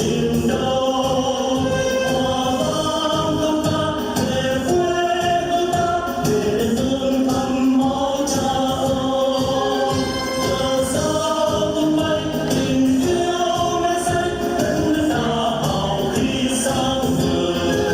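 A group of voices singing together in long held notes over instrumental accompaniment.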